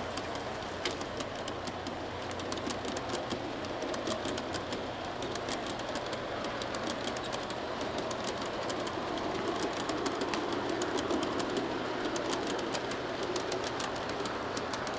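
Freight train rolling along, its wheels clicking rapidly and steadily over the rail joints above a steady low hum.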